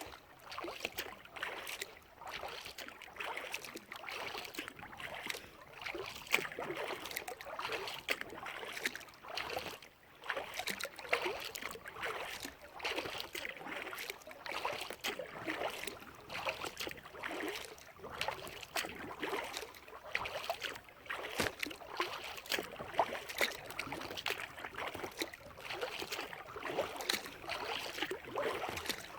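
Kayak paddle strokes: water splashing and dripping off the blades as they dip in and lift out, swelling and fading every second or two.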